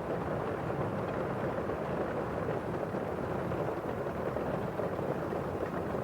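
Steady rain on window glass and falling outside, an even hiss that does not change.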